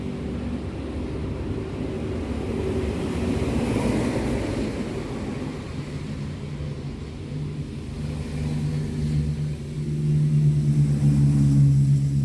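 Engines running with a low steady hum that grows louder over the last few seconds.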